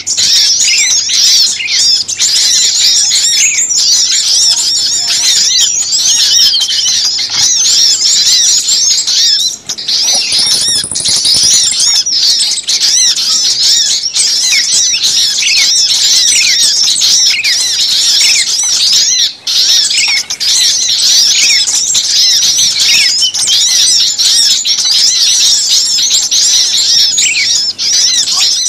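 Dense, noisy chorus of many small songbirds calling at once, quick high-pitched chirps overlapping without pause: an agitated-bird lure recording of the kind played to draw small birds in.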